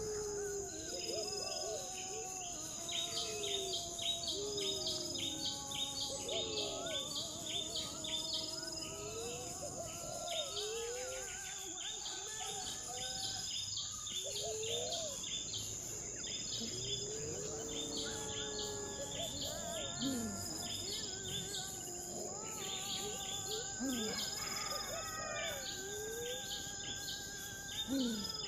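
Tropical outdoor ambience: a steady high insect drone under rows of quick repeated chirps, with many short sliding hoot-like bird calls scattered throughout.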